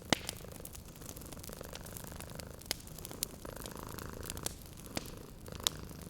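A domestic cat purring steadily over a wood fire's low crackle. Several sharp pops from the fire break through, the loudest right at the start.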